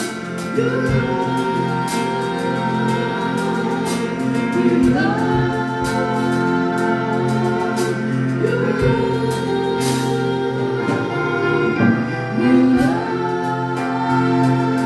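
Gospel worship music: a group of singers holding long notes over sustained keyboard chords, with light percussion ticking along.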